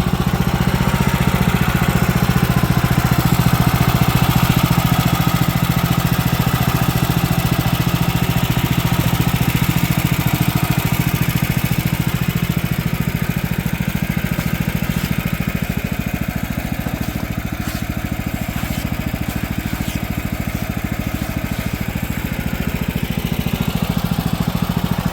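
Woodland Mills HM130 Max portable band sawmill's engine running steadily at high speed while the band blade makes a cut through a log.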